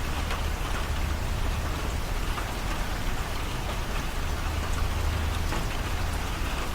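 Steady rain falling, a constant hiss with scattered small drips and ticks, over a low steady hum.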